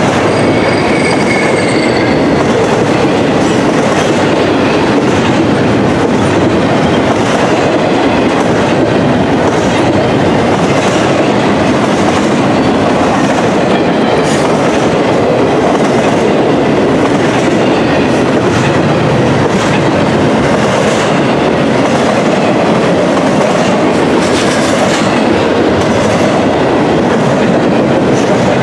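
Double-stack intermodal container well cars rolling past close by: a loud, steady rumble of steel wheels on rail with recurring clicks over the rail joints. A brief high wheel squeal sounds in the first couple of seconds.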